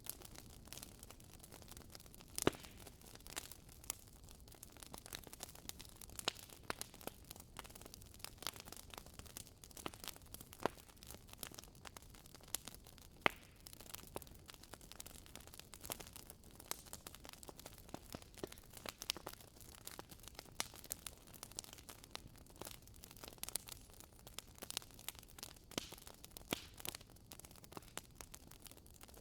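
Bonfire crackling: irregular sharp pops and snaps, several a second, over a faint steady hiss, with two louder pops, one about two and a half seconds in and one about thirteen seconds in.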